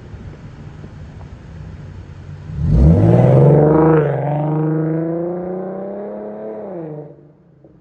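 Infiniti Q50's VQ37VHR V6 with a muffler delete, running with a low rumble, then accelerating hard about three seconds in. The exhaust note climbs sharply, then keeps pulling loudly for about four seconds before it falls away.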